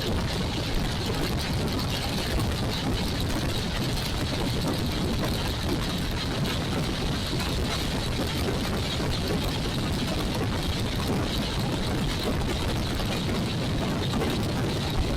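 Steady riding noise from a Royal Enfield Classic 350 on the move: wind rushing over the camera microphone, with the single-cylinder engine running underneath at an even pace.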